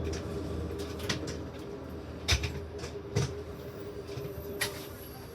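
A train standing or rolling slowly at a station, with a steady hum that dies away about two seconds in and several sharp clanks and knocks.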